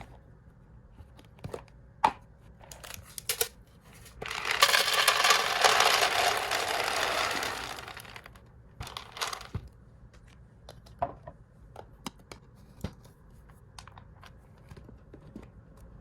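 Dry hamster food packets and plastic storage canisters being handled, with scattered light clicks and knocks. About four seconds in comes a loud, steady noisy stretch of some four seconds, then a shorter one about a second later.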